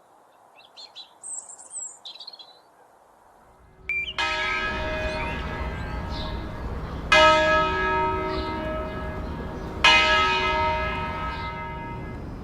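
Small birds chirping briefly, then a church bell struck three times, about three seconds apart, each stroke ringing on and fading, over a low steady rumble.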